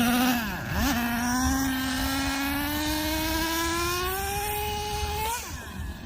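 Traxxas Revo 3.3's small two-stroke nitro engine running: held at steady revs, it dips and picks up again just under a second in, then climbs steadily in pitch for about four seconds before dropping off sharply near the end.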